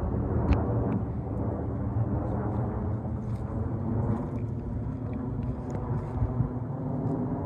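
Jet airliner passing overhead: a steady, even engine rumble.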